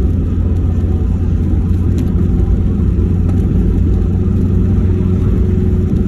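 Steady low rumble of a vehicle being driven, its engine and road noise running evenly.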